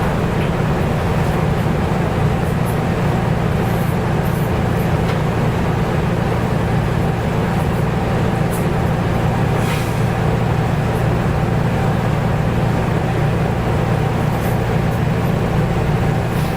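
Nissan Diesel U-UA440LSN city bus heard from inside the cabin, its diesel engine running with a steady low drone over road noise.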